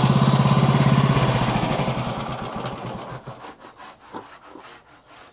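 An engine running steadily with an even firing beat, then shut off and winding down to a stop about two to three seconds in, followed by a few faint knocks.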